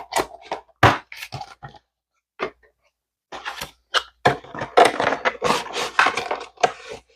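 Plastic blister packaging and its card backing being handled and pulled open by hand: a run of crackles, crinkles and scrapes, sparse at first and busiest in the second half.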